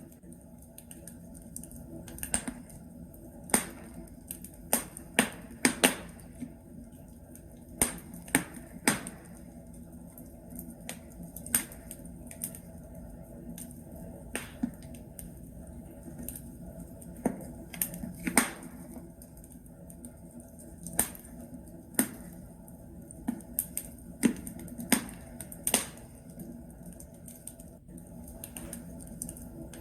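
Wood logs burning in a fireplace, crackling with irregular sharp pops, about one or two a second, over a soft steady hiss of the fire.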